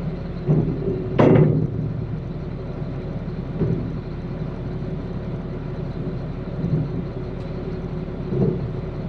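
Vehicle engine idling steadily, with a louder clatter about a second in and a few fainter bumps after it.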